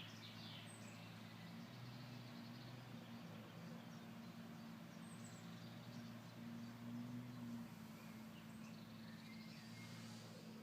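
Faint high chirps of a small bird, a few scattered calls, over a steady low hum.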